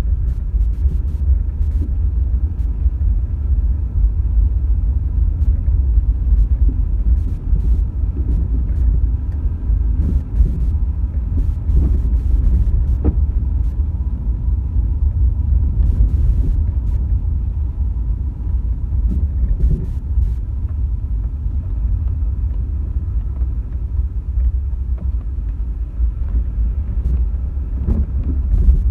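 A moving car's steady low road and engine rumble, with a few short ticks scattered through.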